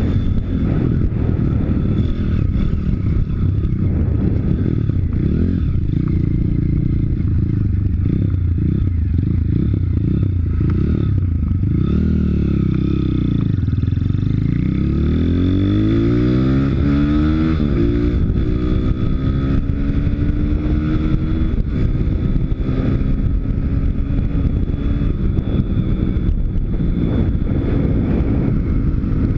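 Pit bike's YX 160 cc single-cylinder four-stroke engine running under way. It eases off to a low point about halfway through, then revs up in one long rising pull and holds a steady, higher pitch to the end.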